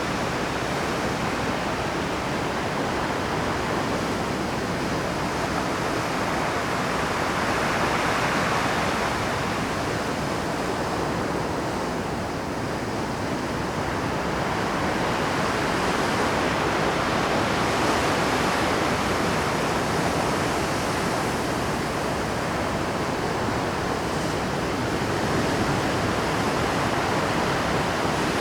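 Rough Pacific surf crashing continuously against shore rocks, a dense steady wash of water that swells a little as bigger waves break, about a third of the way in and again past the middle.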